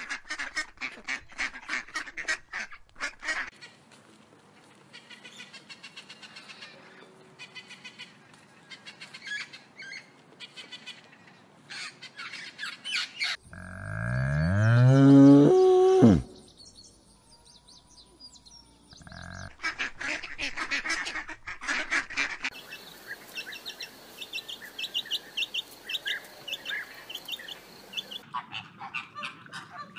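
Ducks calling at the start; about halfway through, a cow gives one long moo that falls in pitch, the loudest sound; near the end, chicks peeping in quick high notes.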